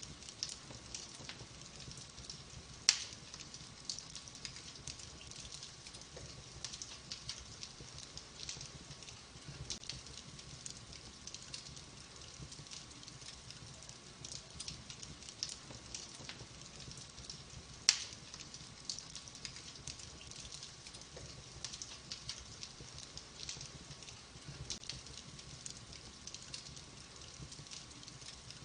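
Wood fire burning in a fireplace, crackling steadily with many small snaps. Two sharp, louder pops stand out, about three seconds in and again near the middle.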